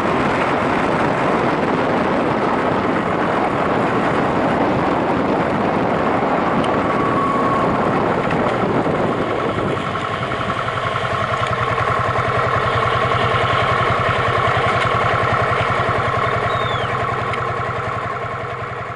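Yamaha SRX400 single-cylinder engine running while riding, buried under heavy wind noise at first. About halfway through the wind drops away and the engine's steady, pulsing note comes through clearly, then it starts to fade near the end.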